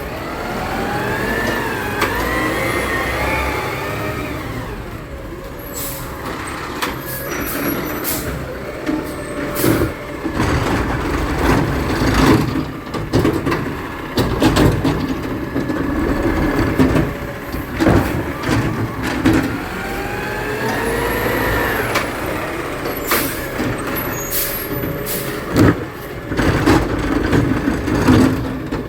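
Garbage truck at work: the engine revs up and back down twice with a rising and falling whine, over a steady diesel rumble. Bangs and clunks run throughout.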